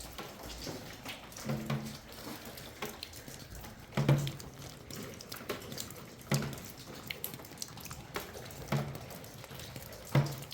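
Water splashing or sloshing with dripping, a louder splash roughly every two seconds.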